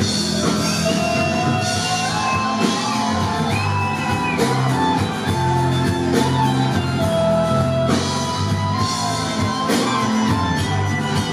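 Anatolian rock band playing live, in the instrumental opening of a song: guitars and a gliding melodic lead line over a steady bass.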